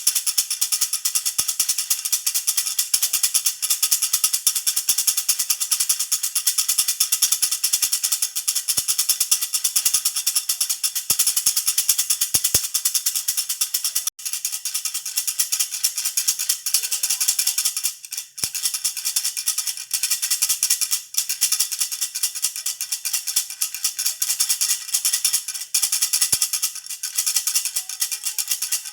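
A jhunjhuna baby rattle shaken continuously, a dense, high-pitched jingling rattle with brief breaks about 14 and 18 seconds in.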